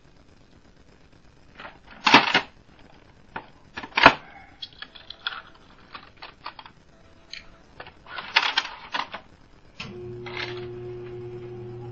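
Irregular clicks and knocks of small hard objects being handled, with two louder knocks about two and four seconds in. A steady low hum starts near the end.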